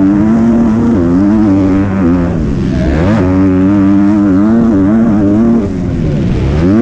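Motocross bike engine running hard under throttle, its pitch holding steady, then dipping and climbing again twice as the throttle is rolled off and back on.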